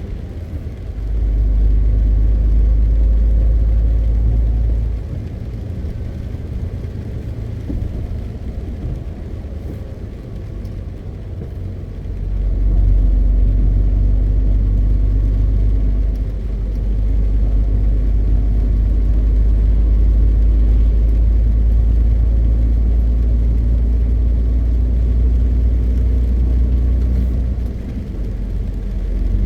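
MAN TGX 520 truck's six-cylinder diesel heard from the cab: a deep engine drone that swells under throttle and falls away when the driver lifts off. It pulls for a few seconds, eases off for about seven seconds, then comes back strongly around twelve seconds in and holds until shortly before the end.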